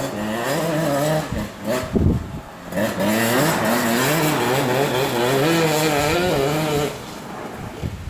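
Honda ATC70 trike fitted with a Honda CR80 two-stroke single-cylinder engine, running with its revs wavering up and down under the throttle. It runs in two spells, a short one at the start and a longer one from about three seconds in, and drops away near the end.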